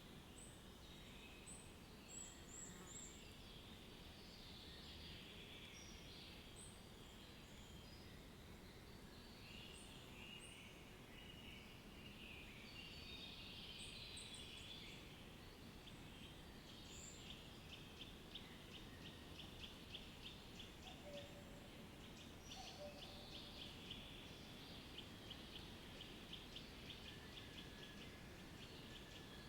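Faint outdoor ambience of several birds chirping and calling over a low steady background hiss. In the second half a fast, evenly repeated ticking trill joins in.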